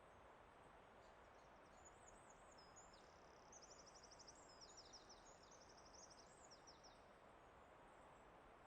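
Faint forest ambience: a songbird sings a high, rapid trilling song of several quick phrases, from about two seconds in until about seven seconds in. A steady soft rushing sound lies beneath it.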